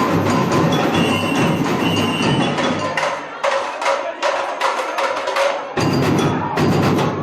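Samba bateria drumming: bass drums pounding under a dense layer of higher percussion. About three seconds in the bass drums drop out and only crisp high-pitched hits go on, then the full ensemble comes back in near six seconds.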